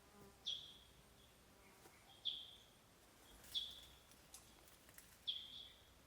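Faint bird call: a short chirp that drops quickly in pitch, repeated four times about every one and a half to two seconds, over quiet background hiss.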